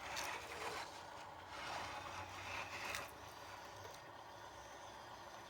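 Dump truck running: a faint low engine hum under a hissing noise that swells twice, once at the start and again from about one and a half to three seconds in.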